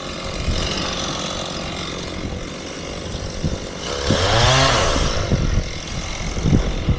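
Chainsaw running, revving up and dropping back about four seconds in.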